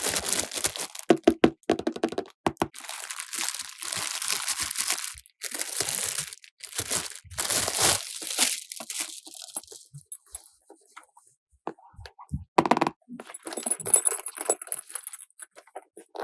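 Plastic toy pieces and packaging being handled: crinkling and crunching stretches broken by sharp clicks and a few knocks.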